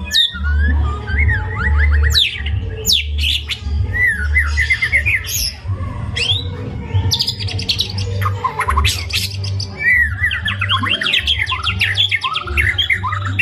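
White-rumped shama (murai batu) singing a continuous, fast and varied song of sweeping whistles, chattering trills and rapid repeated notes, packed with mimicked phrases. A low hum runs underneath.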